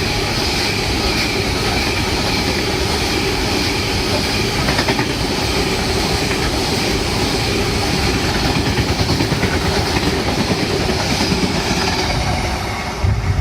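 Freight train passing through the station: a steady, loud rumble and clatter of wagon wheels on the rails, dying away near the end.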